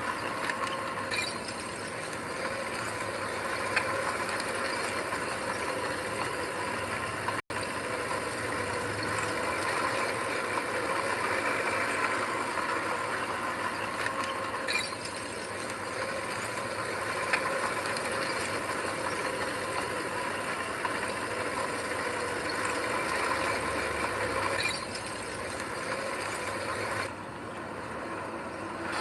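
Heavy earthmoving machinery, a diesel engine running steadily, with occasional short metallic clanks and rattles.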